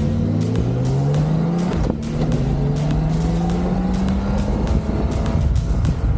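Motorcycle engine accelerating under load with wind rush. Its pitch climbs, drops back at a gear change about two seconds in, then climbs steadily again.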